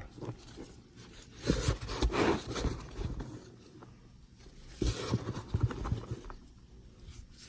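Hands digging through moist bedding in a worm bin, with irregular soft rustles and scrapes.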